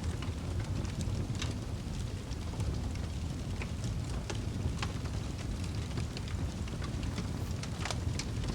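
Fireplace fire crackling: a steady low rumble with irregular sharp crackles and pops.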